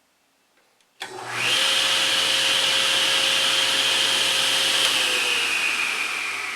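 A woodshop machine's electric motor switches on about a second in, spins up within half a second and runs at full speed with a steady rush and high whine, then near the end begins winding down, its pitch and loudness slowly falling as it coasts after being switched off.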